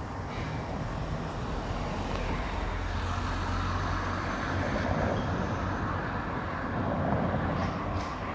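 Road traffic going by, a continuous rumble of car engines and tyres that swells twice as vehicles pass.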